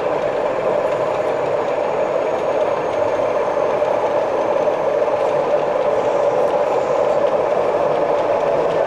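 O gauge model train running on the layout, a steady, unbroken running noise.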